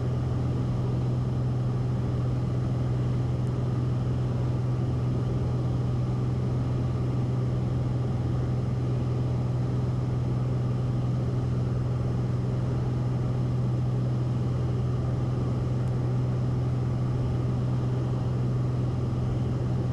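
Steady cabin drone of a Cessna 172RG's engine and constant-speed propeller in level cruise flight, a constant low hum that holds the same pitch throughout. The engine is throttled back to cruise power, with manifold pressure around 23 inches and the propeller pulled back below it.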